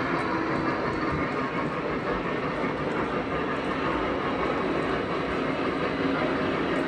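Model train running on its track, a steady, even rolling noise with no breaks.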